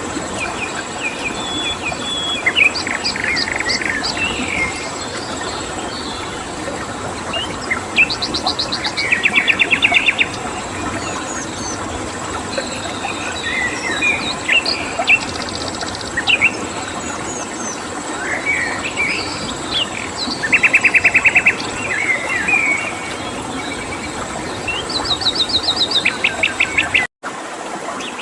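Songbirds chirping and singing, several times breaking into fast trills of evenly repeated notes, over a steady rushing stream and a cricket's thin steady high tone. The whole track drops out for a moment near the end.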